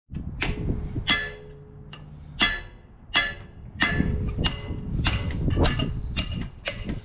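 Hammer blows on a steel pin in a John Deere 35D excavator's linkage, about ten sharp ringing metallic strikes that come faster in the second half, driving the pin out.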